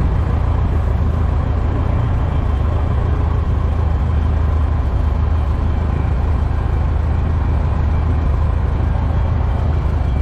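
Cessna 120's four-cylinder air-cooled aircraft engine and propeller running steadily on the ground during an engine run-up, a loud even drone with no change in speed.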